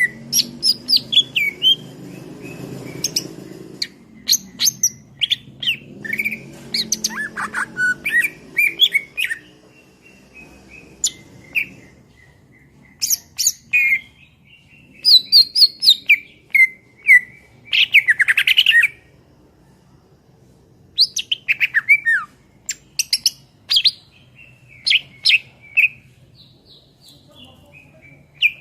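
Cucak ijo (green leafbird) singing in varied bursts of quick sweeping, dropping whistles and sharp chips, with a fast rattling trill about two-thirds of the way through and a few short pauses between phrases.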